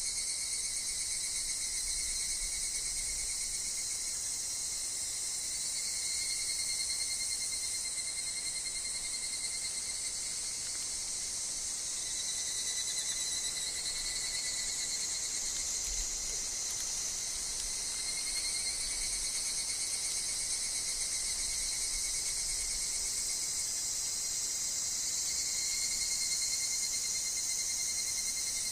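A chorus of higurashi (evening cicadas) and other insects calling continuously. Pulsing, trilling phrases swell and fade every few seconds over a steady high-pitched hiss of insect song.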